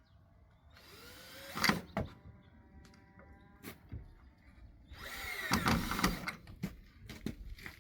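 A power drill driving a screw into pallet wood, running for about a second and a half in the second half, after a few sharp knocks on the wood.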